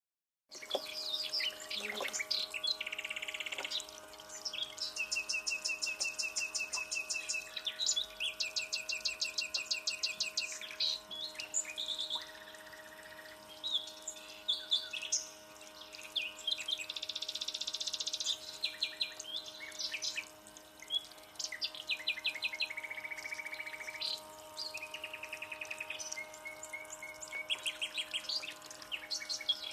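Songbirds singing: a run of varied chirps and fast trills, one phrase after another, over a faint steady hum.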